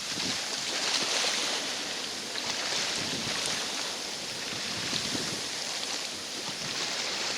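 Choppy lake water washing against the shore, with wind on the microphone: a steady, even rush.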